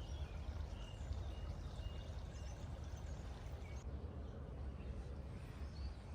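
Outdoor ambience: a steady low rumble with a few faint bird chirps and short whistles over it.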